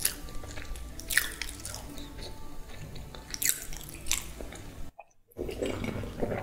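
Eating sounds from a soft egg sandwich: biting and chewing with a few crisp clicks, over quiet background music. The sound drops out briefly about five seconds in.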